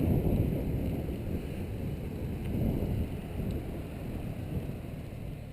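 Wind buffeting the camera microphone while riding a mountain bike: a low, uneven rumble that eases off over the few seconds.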